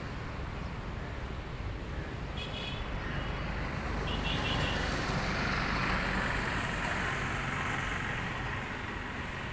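Road traffic noise: a steady rumble and hiss of motor vehicles that swells in the middle as a vehicle passes and then fades. A few short high chirps are heard early on.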